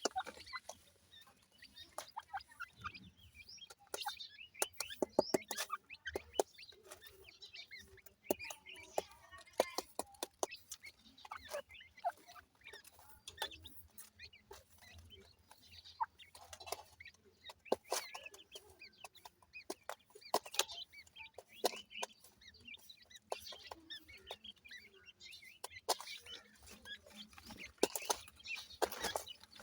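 Ringneck pheasant chicks cheeping in short, high calls throughout, with many sharp clicks and taps scattered among the calls.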